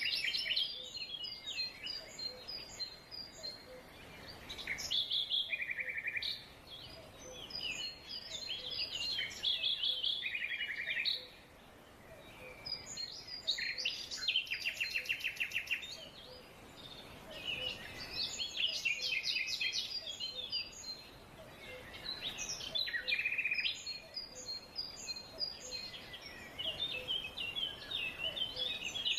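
Several birds singing and calling together in a forest chorus, a mix of chirps and trills. A short buzzy trill recurs several times, and a rapid rattling trill comes about halfway through.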